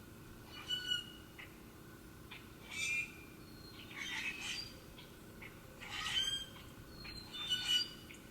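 Bird giving harsh squawking calls, five in all, spaced one to two seconds apart.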